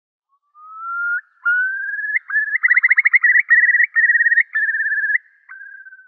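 A bird's whistled call: rising whistled notes that speed up into a rapid fluttering trill, then slow into a few longer, steadier whistles.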